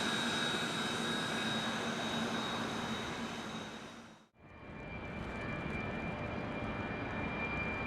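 Business jet engines running, a steady roar with a high whine, fading out at a cut about four seconds in; then another jet's engine noise starts up with a lower steady whine.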